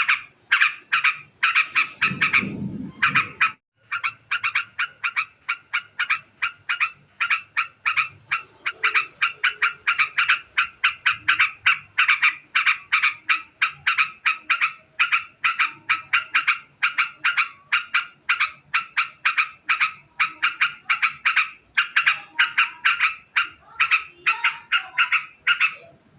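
Yellow-vented bulbul (trucukan) giving a long, very fast chattering call: a rapid train of sharp notes, several a second, broken only by a short pause about three and a half seconds in. A brief low rumble sounds under the call about two seconds in.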